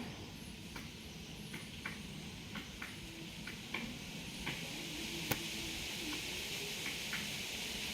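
Outdoor ambience: scattered short, sharp ticks or chirps at irregular intervals over a steady hiss that grows louder in the second half.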